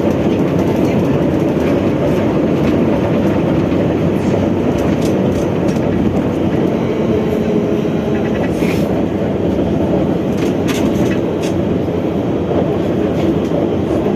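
Trolleybus in motion heard from inside the passenger cabin: a loud, steady rumble from the road and running gear, with faint steady tones and occasional short rattles and clicks, the clearest about two-thirds of the way through.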